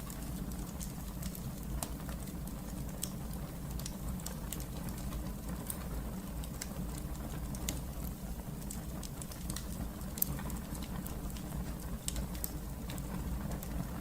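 Wood fire crackling in a fireplace: frequent sharp pops and snaps at irregular moments over a steady low rumble of the burning fire.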